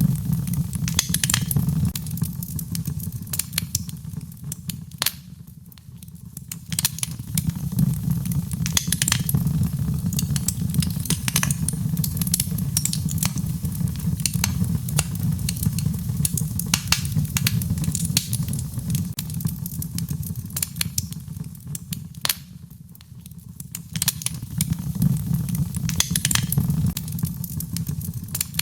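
Wood fire in a fireplace crackling and popping, many sharp snaps over a low steady rumble of the flames. The rumble swells and eases, dropping away briefly about five seconds in and again a few seconds before the end.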